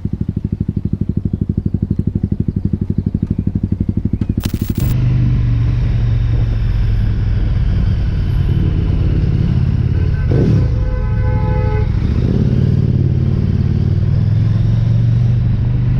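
Motorcycle engine running, with a fast, even pulsing beat. About five seconds in it changes suddenly to a steadier engine drone, which continues, with a brief pitched tone over it about ten seconds in.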